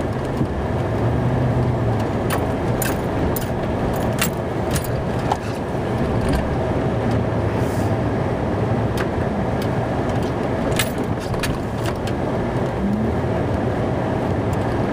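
Plow truck's engine running, heard from inside the cab, while it back-drags snow off a driveway with the blade down. Scattered short clicks and rattles sound over the steady engine.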